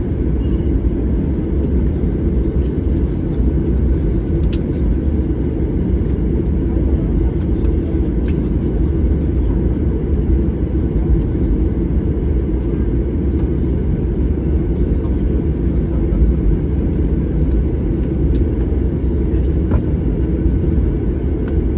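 Steady low rumble inside an airliner's passenger cabin after landing, from the idling jet engines and the cabin air system, with a few faint clicks.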